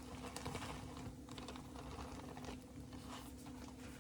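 A run of light, irregular clicks and taps over a steady low hum.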